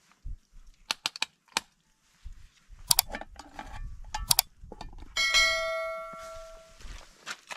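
A few sharp clicks and knocks, then a metal object struck once about five seconds in, ringing with a bell-like tone that fades over about a second and a half.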